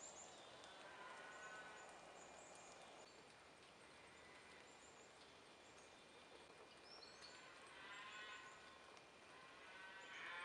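Faint, drawn-out calls from farm livestock, a few times, with small birds chirping high over a soft steady hiss of the wet outdoors.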